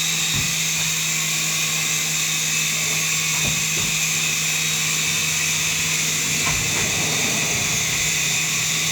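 Small electric RC helicopter hovering: its motors give a steady high-pitched whine over the low, even hum of the spinning rotor blades.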